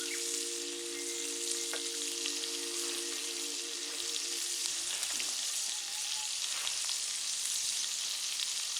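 Steady sizzling hiss with scattered faint crackles. A low hum of several steady tones sounds alongside it, wavers and stops about five seconds in.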